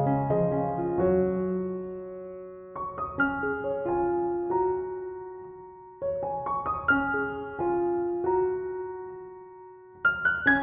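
Background piano music: gentle phrases of struck notes that ring out and fade, a new phrase starting about every three seconds.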